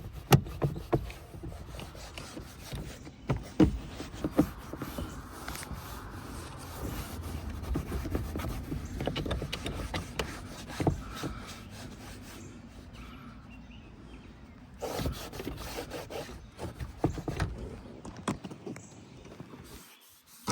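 Hand rubbing and scrubbing on car interior surfaces, with scattered knocks and clicks from handling the trim as it is cleaned.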